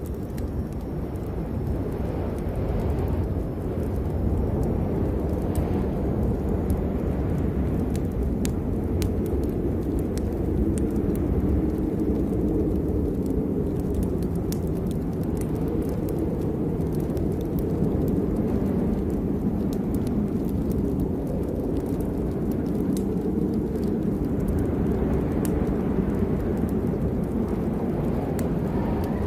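Rain with a steady, deep rumble of thunder, sprinkled with scattered sharp ticks of drops.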